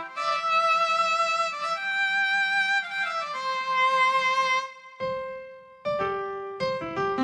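Casio CT-X700 / CT-X870IN portable keyboard playing a slow melody in a violin-like bowed-string voice, with held notes and vibrato. After a brief break about five seconds in, it plays shorter separate notes in another voice.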